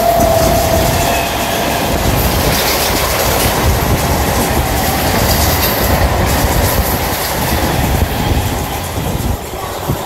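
Electric multiple-unit (EMU) local train passing close at speed: loud, steady rumble and clickety-clack of wheels over the rail joints. The tail of its horn, falling slightly in pitch, fades out in the first second, and the noise drops near the end as the last coach goes by.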